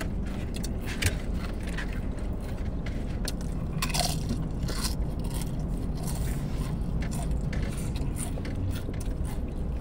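Close-miked chewing and wet mouth smacking as two people eat wet burritos and rice, with many short, irregular clicks.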